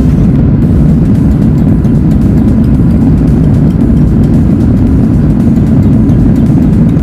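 Steady low rumble of cabin noise inside a Boeing 737 MAX 8-200 airliner in flight: engine and airflow noise, loud and unchanging.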